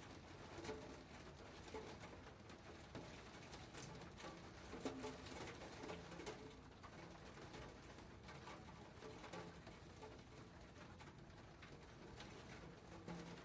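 Faint rain, drops pattering in many small ticks over a soft hiss, with a pigeon cooing low now and then.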